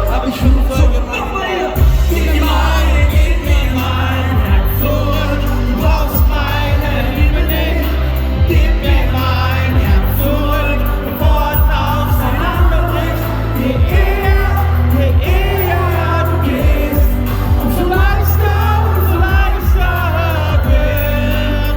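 Live pop music: a sung melody over a band with a heavy, steady bass.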